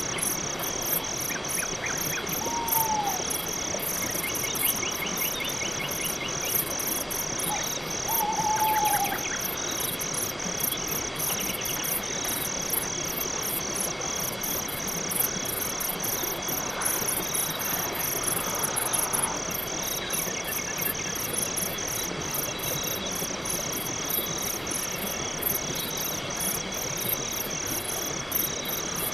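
Night-time insect chorus: crickets chirping in a steady, even rhythm of about two to three chirps a second over a constant hiss of other insects. Twice, about two and a half and eight and a half seconds in, a short falling call from an unseen animal cuts through.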